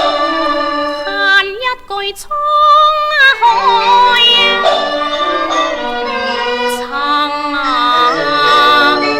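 Cantonese opera (yuequ) song: a woman's solo voice singing a slow, ornamented line with wavering, sliding pitch over instrumental accompaniment, with a brief break about two seconds in.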